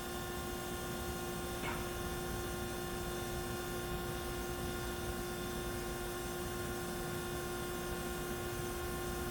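Hyd-Mech V-20 vertical band saw running, a steady machine hum with a constant pitched whine. A brief faint tick comes about two seconds in.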